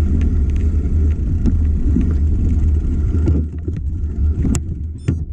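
Wind rushing over the microphone and mountain-bike tyres rolling on a forest trail, a loud, steady rumble. It eases about three seconds in as the bike slows, and a few sharp clicks follow near the end.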